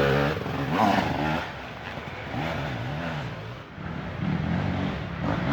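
Dirt bike engine revving on and off the throttle, its pitch repeatedly rising and falling. It is loudest at the start, drops back after about a second and a half, fades briefly a little past halfway, then picks up again.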